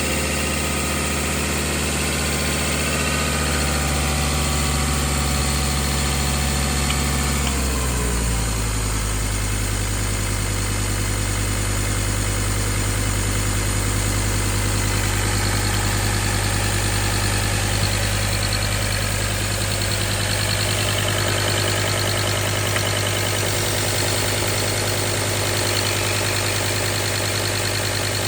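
2012 Ford Ranger's 3.2-litre five-cylinder turbo-diesel engine idling steadily. About eight seconds in, the idle speed drops and settles at a lower, even idle.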